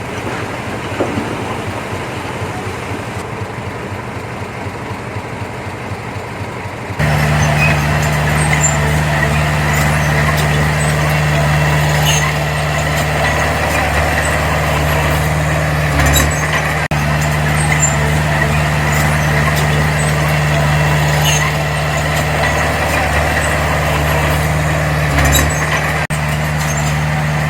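Heavy diesel engine of earthmoving machinery running steadily. About seven seconds in it jumps to a louder, harder-working note and holds there, with light scattered metallic clicks over it.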